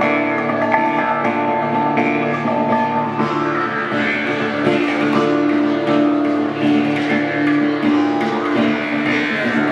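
Meditative music played on a plucked string instrument, its notes ringing on over steady low sustained tones.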